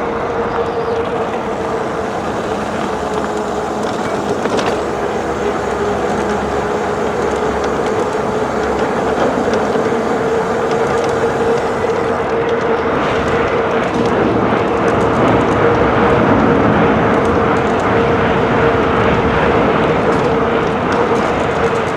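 Wind rushing over the microphone and road noise from an e-bike on the move, with a steady whine held throughout.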